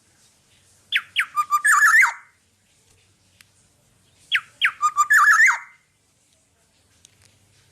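Black-naped oriole singing: two short phrases about three seconds apart, each opening with a quick run of falling whistled notes and ending in a warble.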